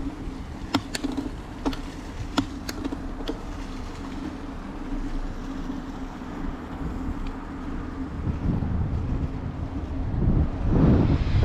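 Bicycle ride noise: a steady low hum with several sharp clicks or rattles in the first few seconds. Wind buffeting the microphone rises loudly about ten seconds in.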